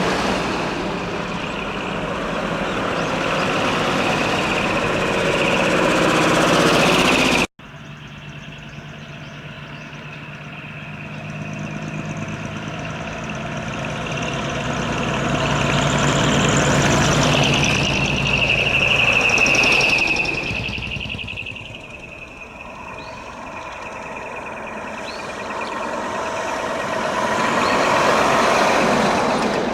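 Decorated trucks' diesel engines with manifold-split (mani-wari) exhausts running loud as the trucks drive past one after another, the sound swelling and fading with each pass. It breaks off suddenly about seven seconds in and picks up again.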